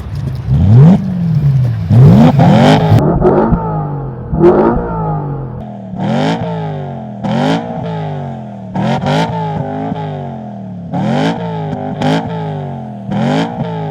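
BMW M3's S65 4.0-litre V8 with an IPE aftermarket exhaust and carbon intake plenum, free-revved in quick blips about a dozen times, each rev rising sharply and falling back toward idle. The blips come in a fast cluster at first, then about one every second or two.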